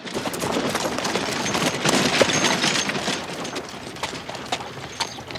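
Dense, rapid clatter of many small knocks and rattles that starts suddenly, is loudest about two seconds in and then eases off.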